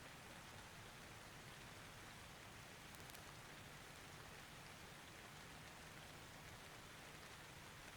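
Faint, steady rain falling, with no thunder.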